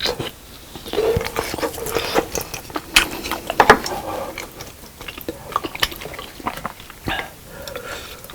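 Close-miked chewing and wet mouth clicks of a person eating spicy fish cake soup with soft rice cakes, with irregular bites throughout.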